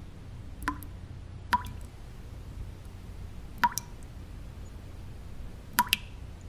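Water drops falling one at a time at irregular intervals, each a short plink with a brief ring, about five in all. Under them runs a steady low white-noise hum.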